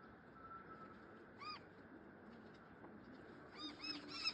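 Birds calling: one short call about a second and a half in, then a quick run of short, arching calls, several a second, near the end.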